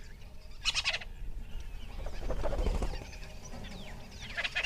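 Wild birds calling: a short, rapid rattling call about half a second in and another near the end, with thin falling chirps between.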